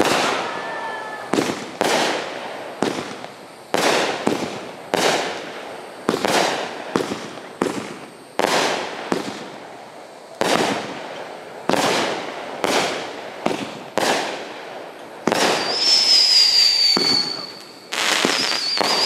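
Aerial fireworks bursting in quick succession, about one sharp bang a second, each dying away briefly. Near the end a shrill whistle falling slightly in pitch sounds twice over the bangs.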